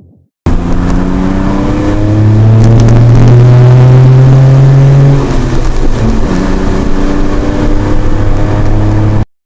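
Kei truck's exhaust note: the engine is revved up, held at higher revs for about three seconds, then drops back and runs lower with small blips. The sound starts and stops abruptly.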